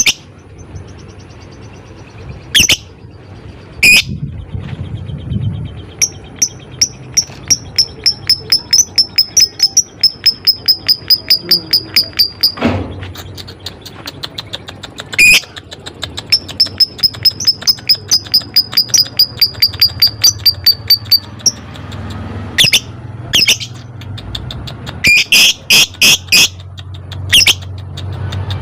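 Lovebird calling: several loud, shrill single shrieks and two long runs of rapid repeated chattering notes, about four or five a second and several seconds each. This is the long 'ngekek' chatter used as a lure call to set other lovebirds calling.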